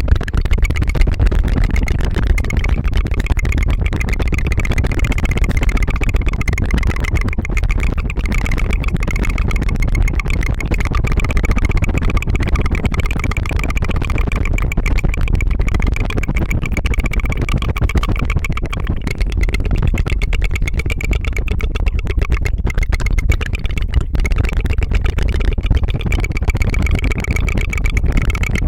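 Rapid, continuous ASMR tongue fluttering close to the microphone: a fast rattling trill, like a helicopter's putter, that runs on steadily without a break.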